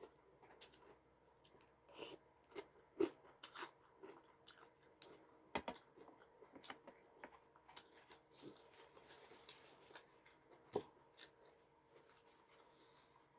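A person chewing crunchy food close to the microphone: irregular crunches and clicks, sharpest about three and five and a half seconds in.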